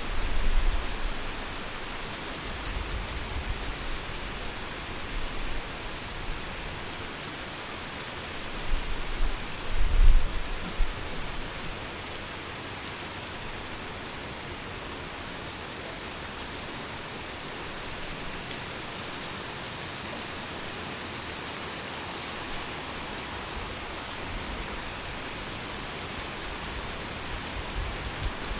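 Heavy rain falling as a steady, even hiss. Low rumbles swell about a second in, again around ten seconds in (the loudest moment), and faintly near the end.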